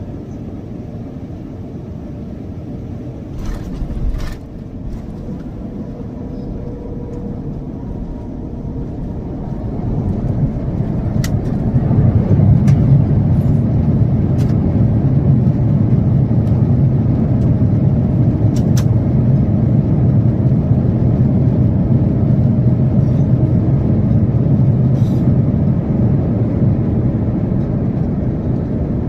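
Airbus A350 cabin noise during landing: a steady rumble, a thump about four seconds in, then the rumble grows louder around ten to twelve seconds in and holds, with a few sharp rattles, typical of touchdown followed by reverse thrust and braking on the rollout.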